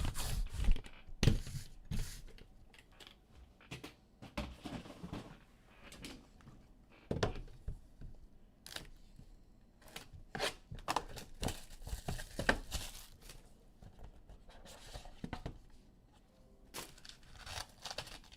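Trading-card packs being torn open and their wrappers crinkled, with cards and cardboard handled in irregular rustles and taps.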